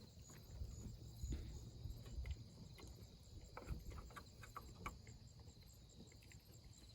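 Insects chirping steadily in a high, even pulsing trill, with scattered faint clicks and a low rumble of wind on the microphone.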